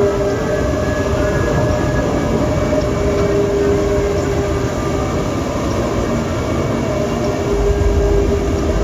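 Expedition Everest roller coaster train running along its track: a steady rumble with a held hum, the rumble swelling near the end.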